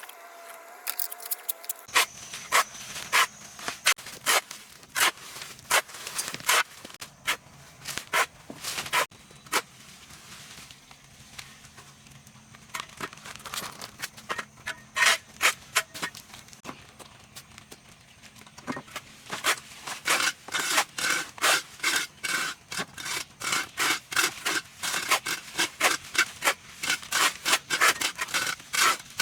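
Repeated scraping strokes on a hard surface. They are irregular at first, then come quick and even at about three a second for the last third.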